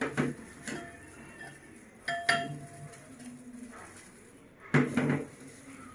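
Spoon clinking and scraping against a bowl while stirring a spiced curd marinade, with a few sharp, ringing clinks spread across the stirring.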